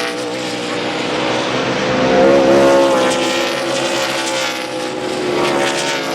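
NASCAR Nationwide stock cars' pushrod V8 engines running at speed, several engine notes overlapping, with a brief rise in pitch about two seconds in.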